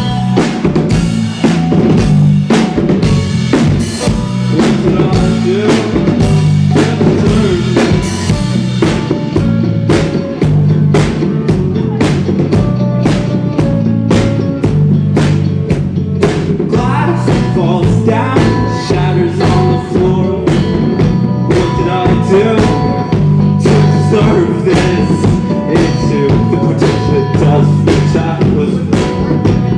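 Live rock band playing an instrumental passage, with a drum kit keeping a steady, busy beat over bass and guitar.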